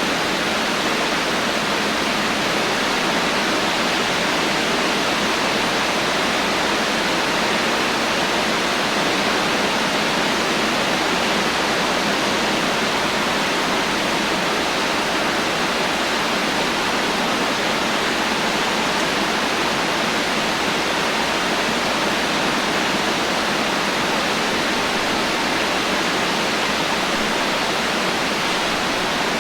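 Heavy rain falling steadily, an even hiss of countless drops with no thunder.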